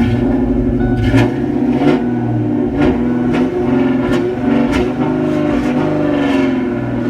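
Ford Mustang GT's V8 engine running steadily on freshly installed spark plugs. Sharp taps recur about every two-thirds of a second over it.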